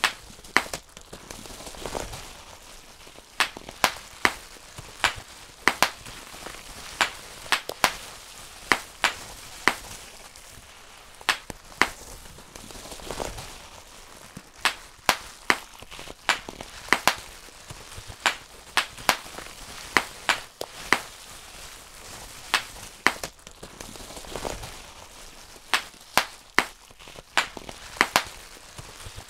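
Bubble wrap being popped by hand: sharp, irregular pops, often several in quick succession, with the plastic sheet crinkling between them.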